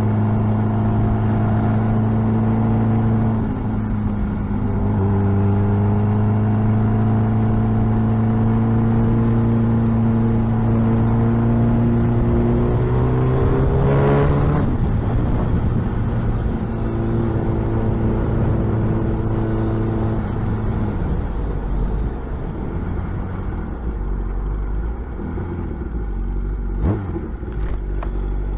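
Suzuki Hayabusa's inline-four engine through a loud aftermarket exhaust while riding: a steady cruising note, a slow rise in pitch about halfway that ends in a sharp gear change, another steady stretch, then the engine note drops lower and rougher for the rest.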